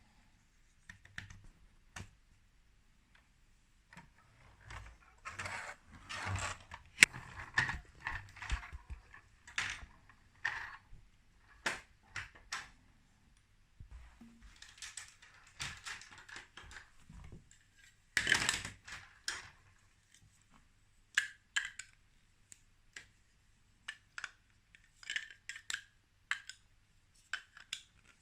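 Small plastic toy building pieces clicking, rattling and rustling as they are handled and fitted together, in irregular bursts with the sharpest clicks about seven and eighteen seconds in.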